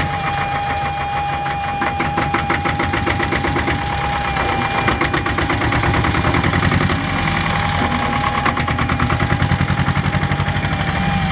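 Porsche AP18 tractor's air-cooled diesel engine running with a steady, regular beat of firing knocks. A steady high whistle runs alongside.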